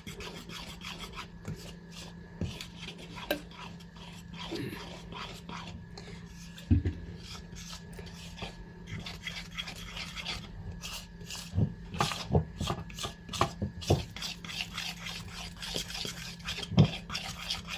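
A utensil stirring and scraping a thick flour-and-milk batter around a bowl, with irregular scrapes and light knocks that come more often in the second half. A steady low hum runs underneath.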